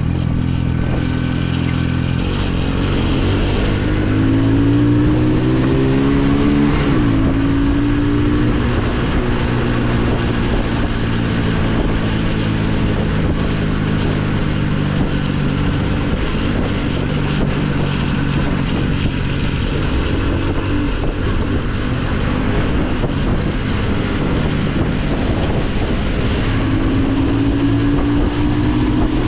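Motorcycle engine under way, climbing in pitch as it accelerates, with a sharp drop at a gear change about seven seconds in. It then cruises steadily and climbs again near the end, over a rush of wind noise.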